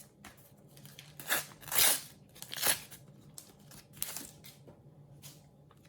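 A sticker packet being torn open and its wrapper crinkled by hand: a few short ripping and rustling bursts, the loudest about two seconds in.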